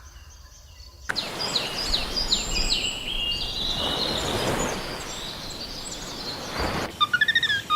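A bird chirping in a series of short, high, falling notes over a steady outdoor hiss. Near the end a different bird-like whistling call takes over with a string of short repeated notes.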